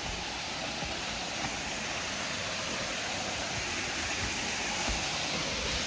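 Waterfall pouring hard into a pool, a steady rushing that grows slightly louder.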